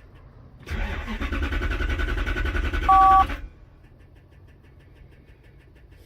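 1993 Lexus SC400's 4.0-litre V8 cranked by the starter for about three seconds without catching: a crank-no-start, the fuel pump not running. A brief two-tone beep sounds just before the cranking stops.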